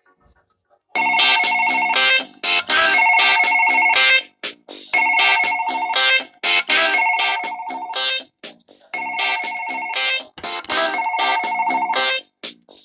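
Samsung Galaxy phone ringtone: a bright melodic phrase that starts about a second in and repeats about every four seconds, three times.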